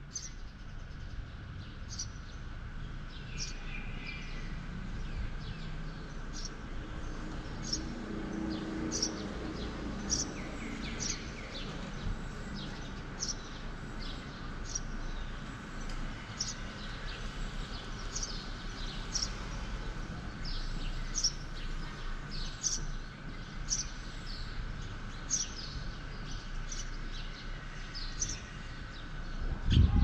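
A small bird chirping over and over, short high notes repeating at a steady pace of about three every two seconds, over a steady low background hum of town ambience.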